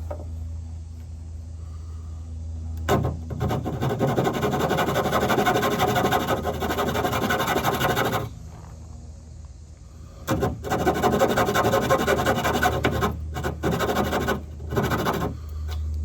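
Cutting a notch into a dry mullein-stalk fireboard, heard as rapid rasping strokes. It comes in two spells, starting about three seconds in and again about ten seconds in, each lasting some five seconds.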